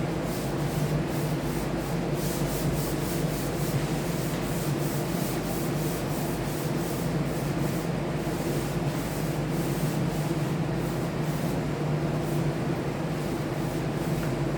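Sanding a wood surface ahead of the top coat: a steady motor hum under a rhythmic scratching that repeats several times a second as the sandpaper is worked back and forth.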